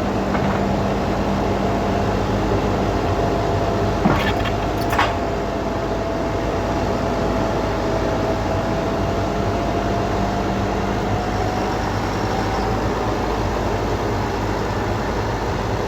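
A vehicle engine running steadily with a thin steady whine over it, and two short knocks about four and five seconds in.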